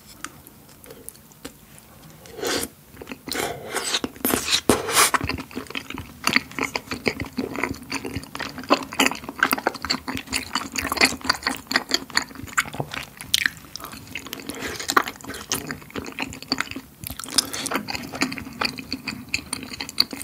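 Close-miked chewing of chewy tteokbokki rice cakes in creamy rose sauce: wet, sticky mouth clicks and smacks, lighter at first and coming thick and steady from about two seconds in.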